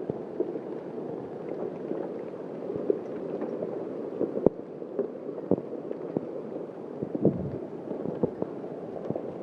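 Heavy hail with rain coming down hard in a storm that is picking up again: a steady rushing hiss with many irregular sharp clicks and knocks as hailstones strike hard surfaces.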